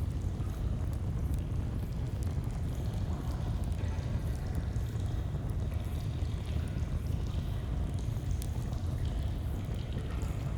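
Steady rushing of a flowing stream with a deep rumble, and a campfire crackling over it in scattered small pops.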